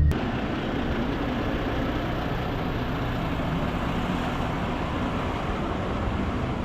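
Heavy diesel truck running with a steady rumble.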